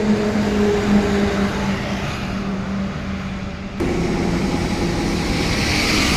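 Diesel engine of a SANY motor grader running steadily. About four seconds in, the sound changes abruptly to a different engine note.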